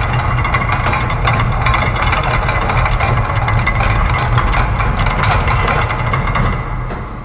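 Layered loops of factory machine sounds: dense, overlapping mechanical clicking and ticking over a steady low hum, like gears, ratchets and presses running together. It eases down in level near the end.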